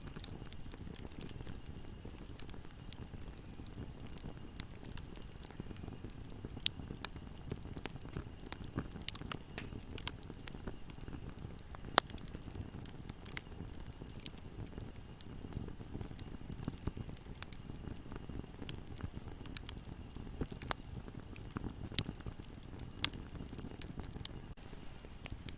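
Wood fire burning: a low steady rumble of flame with scattered sharp crackles and pops, two louder pops about seven and twelve seconds in.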